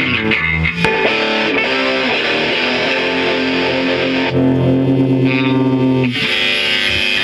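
Live rock band playing with distorted electric guitar and bass guitar. A chord is held for a couple of seconds from about four seconds in, and the music changes just after six seconds.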